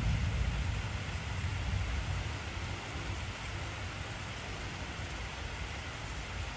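Steady heavy rain, with the low rumble of a thunderclap fading away over the first few seconds.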